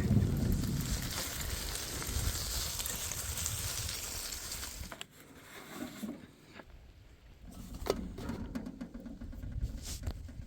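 Wind buffeting the microphone with a steady hiss while cycling in the rain, cutting off sharply about five seconds in; after that, quieter scattered ticks and clicks.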